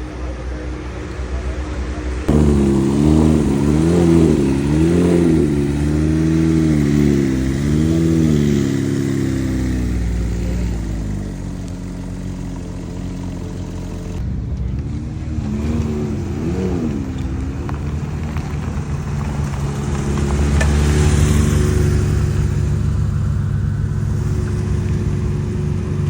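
Car engine being revved in repeated blips, its pitch rising and falling about once a second, with a couple more blips later and then a steadier engine note that swells for a while before settling.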